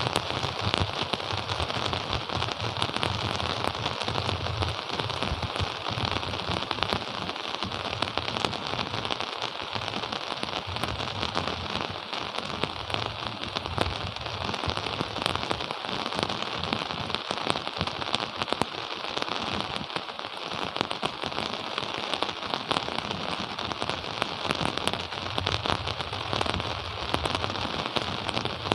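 Steady rain falling, with a dense spatter of individual drop impacts close by.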